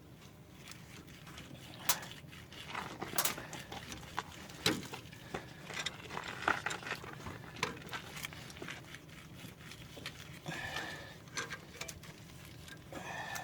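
Scattered clicks, knocks and scrapes of hand tools and metal parts being handled during work on rusted pickup brake hardware, with a brief pitched sound twice in the second half.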